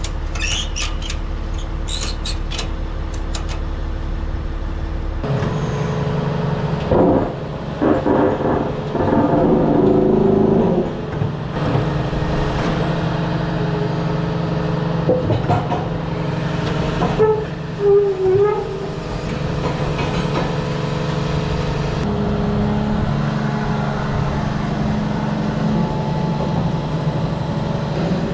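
A heavy vehicle's engine running steadily. Its sound changes about five seconds in, and knocks and clatter come through in the middle.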